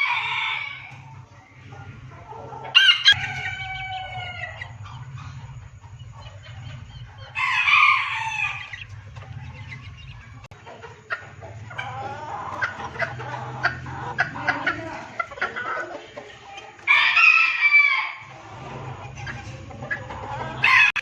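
Chickens: a rooster crows about three times, with hens clucking in between.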